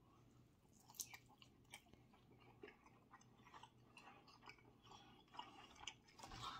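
Faint chewing of a mouthful of grilled steak: soft, irregular wet clicks and crackles. Near the end come a few slightly louder clicks from the knife and fork working on a wooden cutting board.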